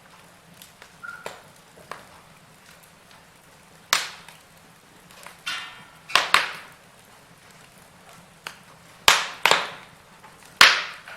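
Burning wood logs crackling in a fire, with about six sharp pops that die away quickly, some coming in close pairs, between quieter ticks. A brief hiss comes just before the middle.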